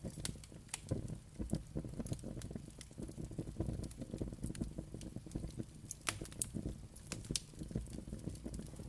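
Wood fire burning with a low steady rumble of flames and irregular sharp crackles and pops throughout, a few louder pops standing out.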